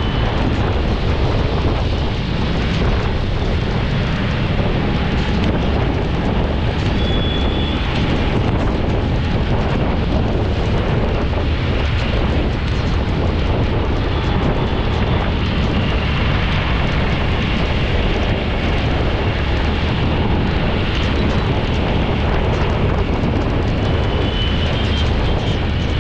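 Steady road and wind noise from a vehicle driving on a wet road: a deep, even rumble with a hiss over it.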